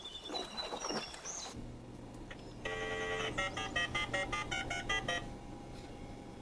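Touch-tone telephone: a steady dial tone for about half a second, then a quick run of dialing beeps lasting about two seconds.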